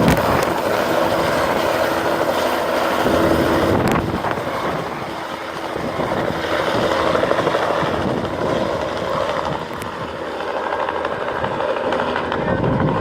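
Helicopter rotor and engine noise, loud and continuous, with a steady droning tone that fades about four seconds in; after that the noise swells and ebbs.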